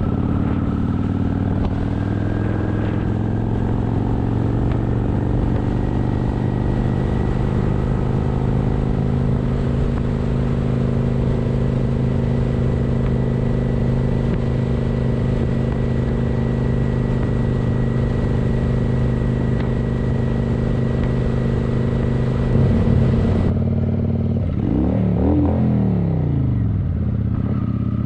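Motorcycle engine running at a steady cruise under a haze of wind and road noise; a little over twenty seconds in the wind noise drops away and the engine revs up and back down.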